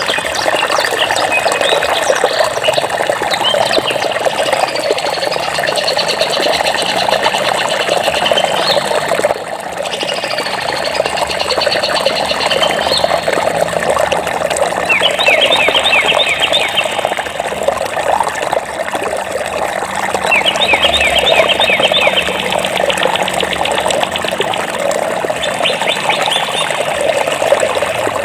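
Running water flowing steadily, with songbirds singing over it in bouts of quick high-pitched trills and chirps.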